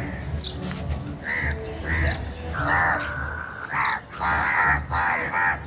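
Crows cawing in a run of harsh caws, several in quick succession, with one longer drawn-out call about halfway through.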